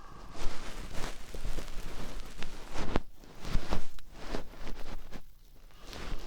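Binaural ASMR ear-cleaning sounds: irregular scratchy, rustling strokes and small clicks close against a dummy-head microphone's ear.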